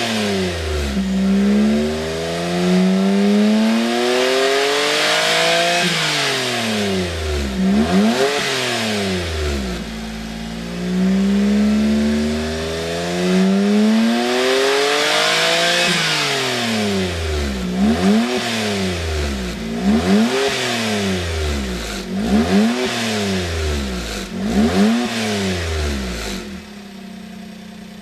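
Suzuki Spacia Gear MK53S's turbocharged 660 cc three-cylinder engine revving through a Kakimoto GTbox 06&S aftermarket muffler. It makes two slow climbs in revs, each dropping back, then a string of quick blips, and settles to a steady idle near the end.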